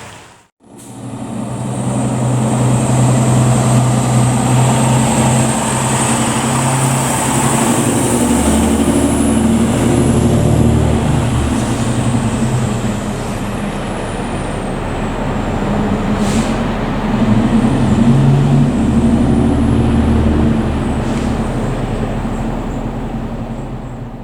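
Fire ladder truck's diesel engine running loud and accelerating twice as the truck drives by, over road noise, with a faint high whine gliding above it.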